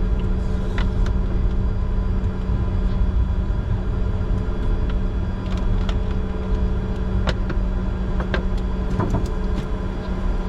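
Steady cockpit noise of a Bombardier Challenger 605 with its engines idling on the ground: a low rumble under a constant hum, with a few light clicks.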